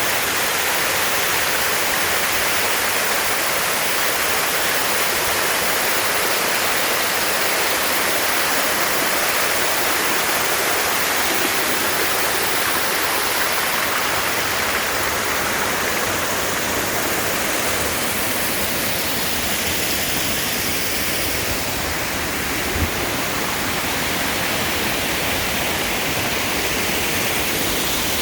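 Mele Cascades waterfall: a steady, dense rush of falling water. There is one brief low thump late on.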